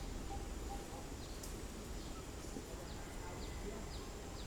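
A bird chirping over and over in short, high, falling notes, over a steady low rumble of outdoor background noise.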